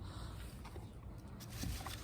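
Faint handling noises, a few soft knocks and clicks, over a steady low rumble.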